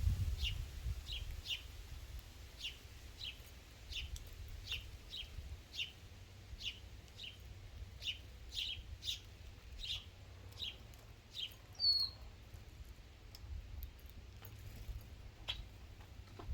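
A bird repeating short, sharp chip notes, roughly one to two a second, with one higher whistled note about twelve seconds in.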